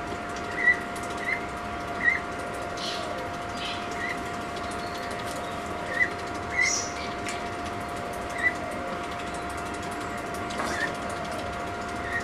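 Short high bird chirps repeating every second or two over a steady machine hum, with water splashing now and then as a common loon paddles and preens in a pool.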